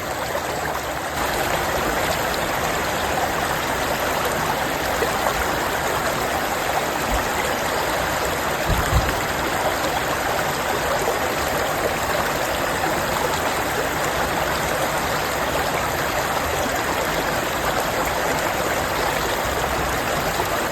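Stream water running steadily over rocks, an even rushing and trickling, with one brief low thump about nine seconds in.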